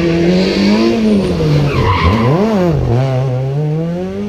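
Rally car engine revving up and down through a tight corner. A quick blip about two and a half seconds in, then a steady climb in pitch as it accelerates away. Tyres squeal during the first second.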